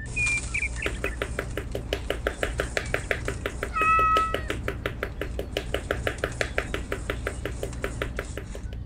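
A small hammer tapping a stick post down into sand, quick even taps at about six a second. Around four seconds in, a short cat meow sounds over the tapping, with a few brief bird-like chirps near the start.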